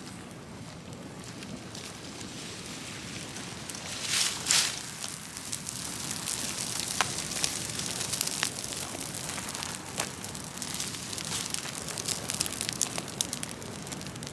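Large open bonfire of felled trees and brush burning, with a steady hiss and many sharp crackles and pops; a louder rushing flare about four seconds in.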